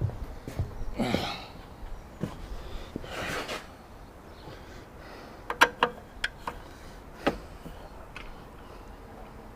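Tools being rummaged for and handled: two rustling scrapes in the first few seconds, then a cluster of sharp clicks and knocks past the middle as hard objects are picked up and set down.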